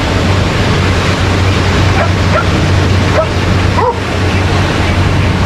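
A few short dog barks and yips between about two and four seconds in, over steady surf and wind noise.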